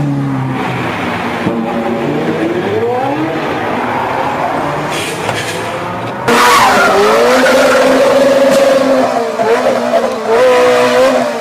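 Sports car engine revving hard and accelerating, its pitch climbing repeatedly. After an abrupt jump in loudness about six seconds in, a steady high squeal of tyres or engine is held for several seconds.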